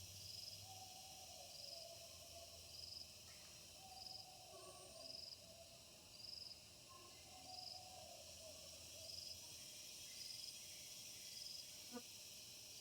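Faint night chorus of insects: a steady high-pitched hiss with a short high chirp repeating about once a second, under low wavering animal calls that come every couple of seconds. A single click near the end.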